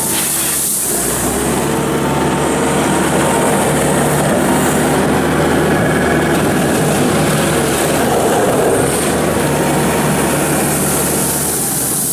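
Case SR220 skid steer loader's engine running steadily, its note changing about a second in.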